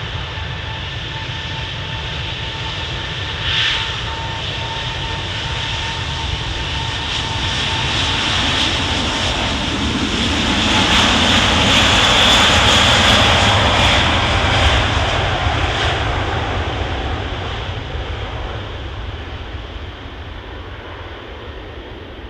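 Airbus A380's four jet engines at takeoff thrust, a steady whine over a deep roar that swells to a peak about halfway through and then fades as the aircraft passes.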